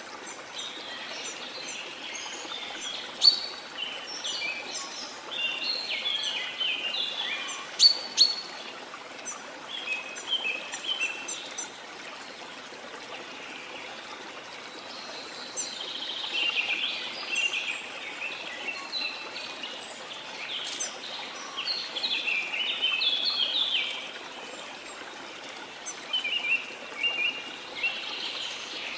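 Birds chirping and singing in busy bouts, with a few sharp loud calls, over the steady rush of a waterfall.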